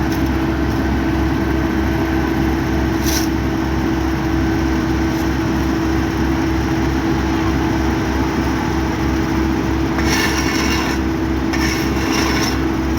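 Heavy diesel construction machinery running steadily, a low pulsing engine throb under a constant hum.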